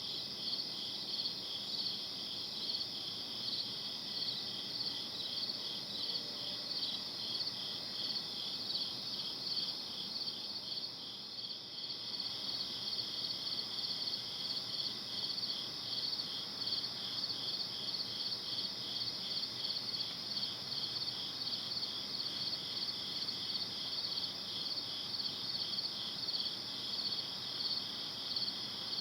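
A night chorus of crickets chirping: a steady, high, rapidly pulsing trill that dips briefly about a third of the way through.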